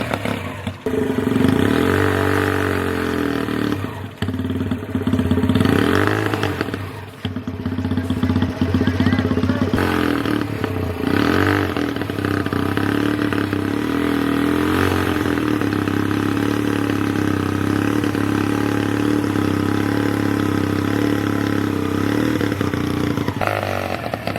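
Mahindra XP Plus tractor's diesel engine revving up and down several times, then running at a steady speed for the second half.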